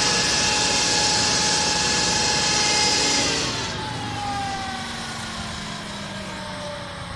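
Tractor-mounted flail mulcher on a 5.5 m reach arm running at full speed with a steady whine and hiss, then disengaged about three seconds in: its whine falls slowly in pitch as the rotor coasts down, with the tractor engine still running underneath.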